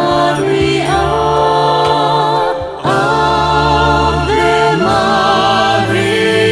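Choir singing a Catholic hymn to the Virgin Mary in long held notes, with a short break for breath about three seconds in.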